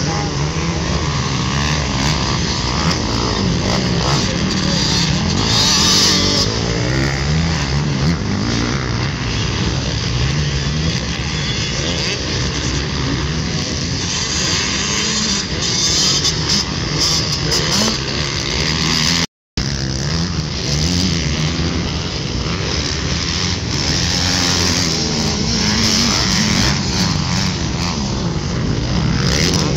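Motocross dirt bike engines running around the track, the pitch repeatedly climbing and dropping as the riders rev and shift. The sound cuts out completely for a moment about two-thirds of the way through.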